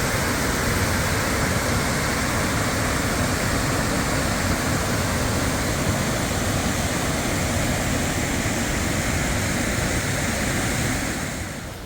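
Waterfall rushing, a loud, steady roar of falling water. It drops off sharply near the end.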